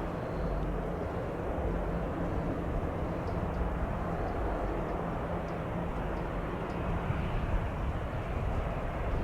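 Jet airliner engine noise, a steady rumble with a faint hum, mixed with gusty wind on the microphone.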